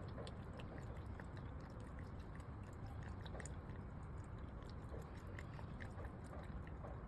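A cat crunching dry kibble: many small, irregular crunches over a steady low rumble.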